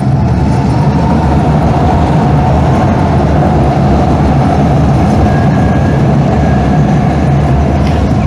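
Steady, loud running rumble of a Calgary CTrain light-rail car in motion, with a deep hum throughout.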